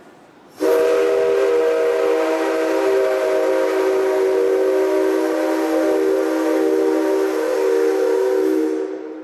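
Whistle of a JNR Class C57 steam locomotive: one long blast of about eight seconds, several tones sounding together as a chord, starting abruptly about half a second in and tailing off near the end.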